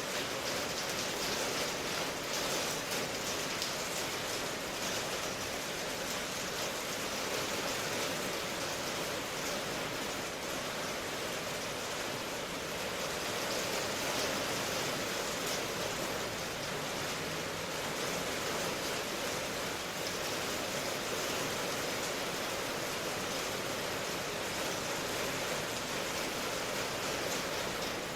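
Steady rain, an even hiss with no distinct drops or thunder.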